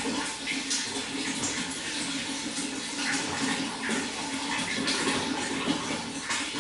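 Running water flowing steadily, with a constant rush and many small irregular splashes.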